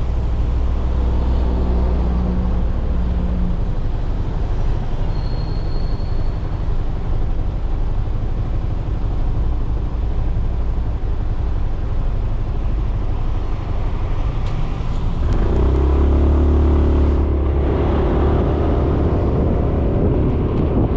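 Suzuki Burgman 400 scooter's single-cylinder engine running under way, with steady road noise. About fifteen seconds in the engine note swells louder and holds a steady hum.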